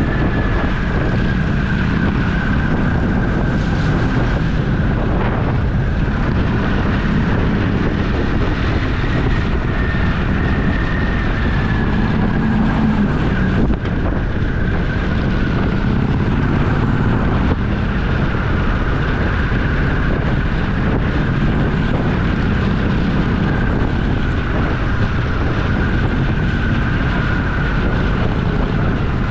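Motorcycle engine running steadily at road speed, mixed with wind rush on the microphone.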